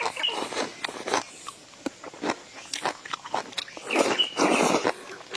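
Close-up eating sounds: chewing and crunching of food with many sharp mouth clicks, and a short high squeak near the start and again about four seconds in.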